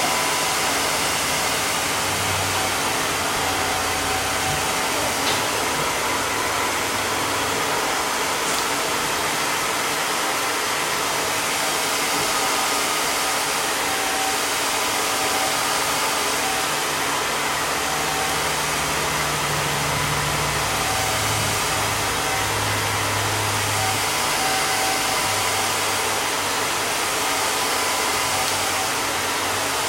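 Hair dryer blowing steadily without a break, drying a freshly laid wig that is held down under a tied band.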